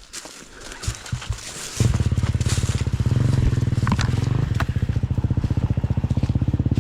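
A single-cylinder four-stroke dirt bike engine comes in suddenly about two seconds in and then runs steadily with an even, fast pulsing beat, after a few light knocks.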